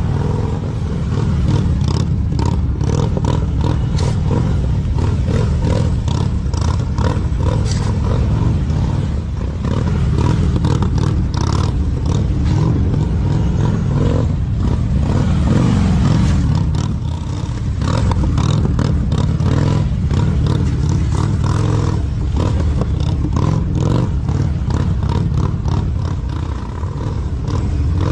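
Police touring motorcycle's engine running at low revs, the throttle rising and falling as the bike is steered through tight slow-speed turns.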